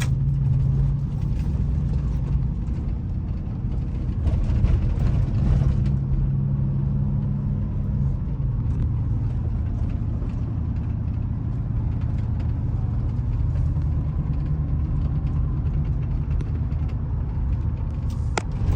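2003 Chevrolet Silverado pickup driving, its engine and road noise heard from inside the cab, a steady low drone. The engine note drops about eight seconds in.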